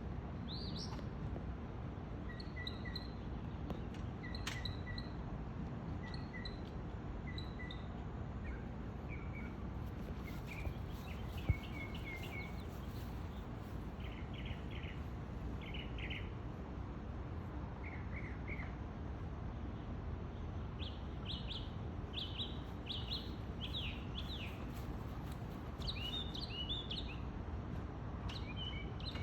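A bird singing: short clear notes repeated about every second or two at first, then varied chirping phrases that grow quicker and busier in the last third, over a steady low background rumble. A single sharp click sounds about a third of the way in.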